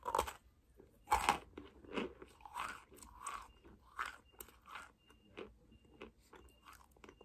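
A person biting into a hard lump of cornstarch and chewing it: a crunchy bite at the start and a louder one about a second in, then steady crunching chews that grow softer over the last couple of seconds.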